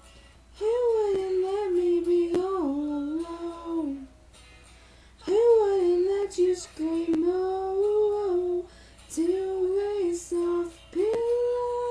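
A woman's solo singing voice carrying a melody in short phrases with brief pauses, then settling on a long held note near the end.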